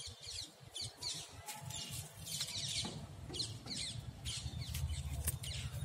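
Small birds chirping outdoors: many short, high-pitched chirps in quick succession, each falling quickly in pitch. A low rumble runs underneath, strongest in the second half.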